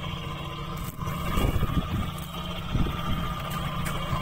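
Small engine running steadily with a low, even drone, with a few short knocks from handling on the wooden boat.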